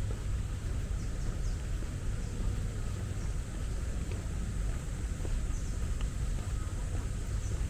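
Steady low rumble of distant city traffic, with a few faint, short bird chirps and a thin, steady high whine over it.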